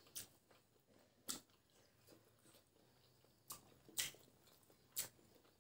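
Faint mouth noises of chewing boiled egg: about five short, sharp smacks and clicks spread out over a few seconds, the loudest about four seconds in.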